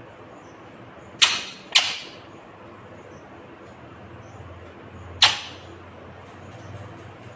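Ringneck parrot giving three short, sharp squawks: two in quick succession about a second in, and a third about five seconds in.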